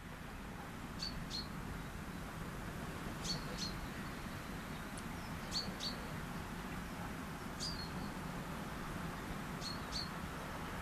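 A small bird giving short, high chirps, mostly in quick pairs, about every two seconds, over a steady low outdoor rush.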